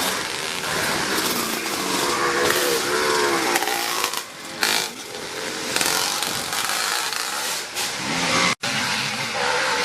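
Classic motocross motorcycles racing on the track, engines revving and changing pitch as the bikes accelerate and pass. The sound breaks off for an instant near the end.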